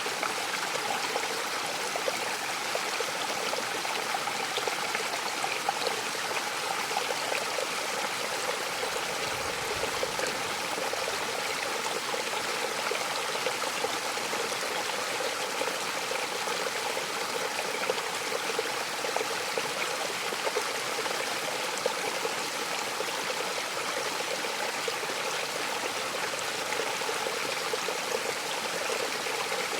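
Waterfall: water falling and splashing in a steady rush that does not let up.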